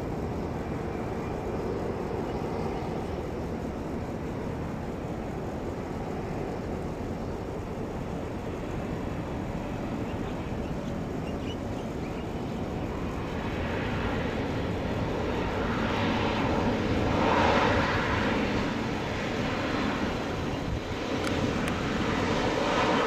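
Jet airliner engine noise: a steady rush that grows louder over the last ten seconds or so, peaking twice as the aircraft draws near.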